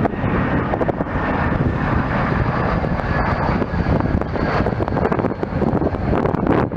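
Jet airliner passing with a steady engine noise and a faint high whine, over wind on the microphone.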